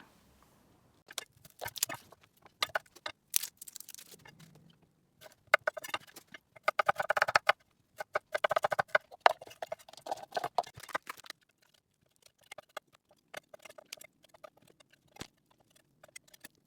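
Irregular clicks, taps and rustling of things being handled, in uneven clusters with short quiet gaps between them and the busiest stretch near the middle.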